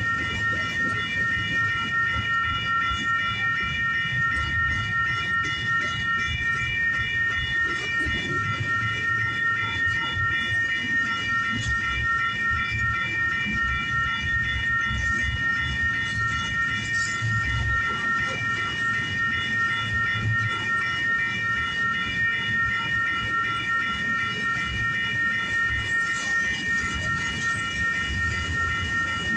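Intermodal freight cars of a long train rolling past with a steady low rumble. Over it runs a continuous, rapidly pulsing high ringing of several pitched tones, typical of an electronic grade-crossing bell sounding while the train occupies the crossing.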